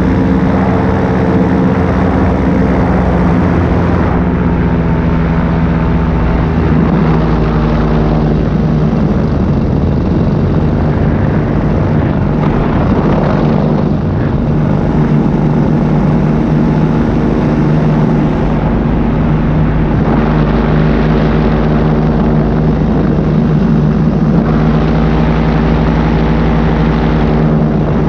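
Paramotor engine and propeller running steadily in flight, the engine note shifting slightly a few times.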